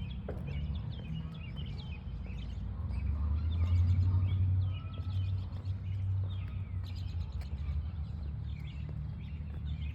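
Small birds chirping and calling again and again, over a steady low rumble that swells about three seconds in and eases off near the five-second mark.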